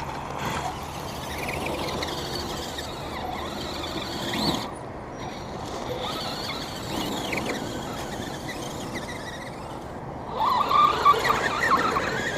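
Electric motors and gearing of radio-controlled crawler trucks whining and squealing as they crawl, the pitch rising and falling with the throttle; a louder stretch of squealing near the end.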